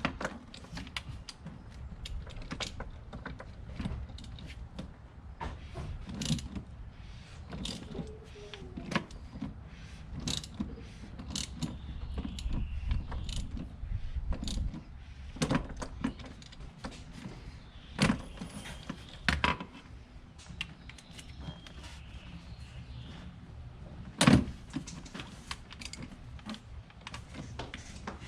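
Small irregular clicks and clinks of tools and the oil filter housing cap being handled as the cap is threaded back onto a BMW B58 engine's filter housing, with a louder knock about 24 seconds in.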